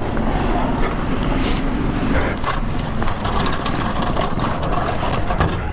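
A vehicle engine running steadily over a continuous low rumble, with a faint hum that rises slightly about two seconds in.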